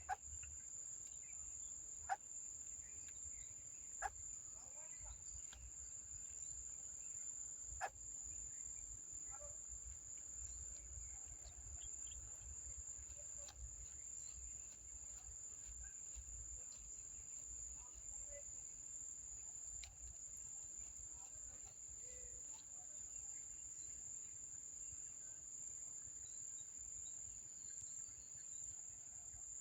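Steady, high-pitched drone of insects, such as crickets, with a few sharp clicks in the first eight seconds.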